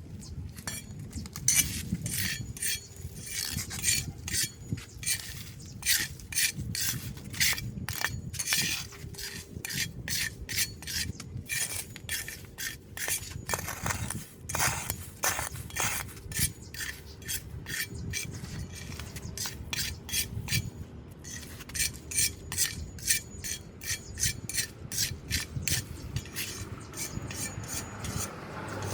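Rapid, repeated scraping strokes, about three a second, with short pauses, from debris being scraped clear of a street drain grate.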